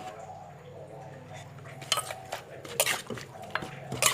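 Utensils knocking and clinking in a mortar as a pounded salad is mixed, a string of sharp irregular knocks starting about two seconds in.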